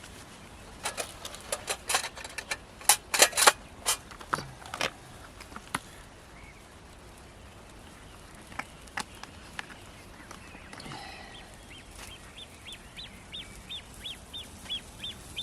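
A burst of sharp clicks and knocks in the first few seconds, with a few single clicks later. Near the end a bird starts calling, a short rising chirp repeated about twice a second.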